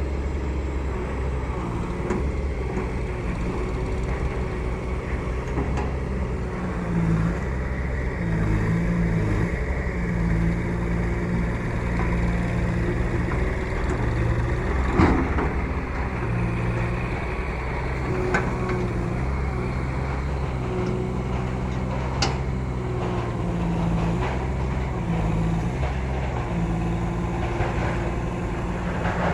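Case IH JX40T tractor's diesel engine running, its pitch stepping up and down a little as it works. A few sharp knocks come through, the loudest about halfway.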